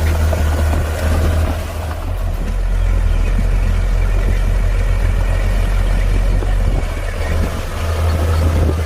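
Heavy diesel engine of earthmoving machinery running loudly. Its deep engine note drops lower about two seconds in, then climbs back up near the end.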